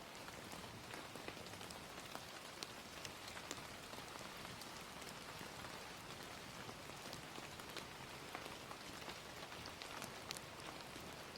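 Gentle rain falling in a steady, soft hiss, with scattered sharp pops and crackles from a wood fire.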